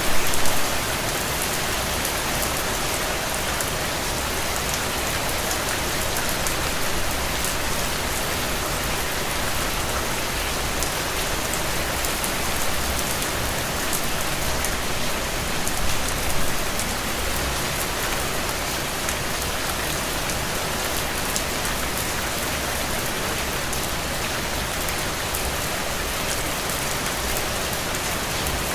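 Steady rain falling on a window pane, a dense even patter of drops. It swells slightly just after the start and again around 16 seconds in.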